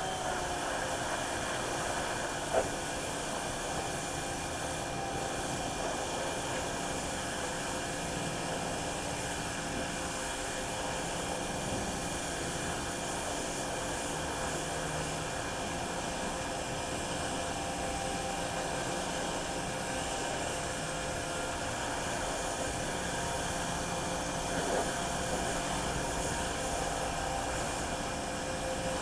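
Steady rushing noise of a running motor or blower, holding one level, with a sharp click about two and a half seconds in and a fainter one near the end.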